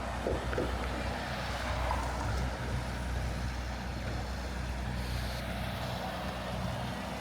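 City street traffic: vehicle engines running with a steady low rumble, a heavy truck or bus engine among them.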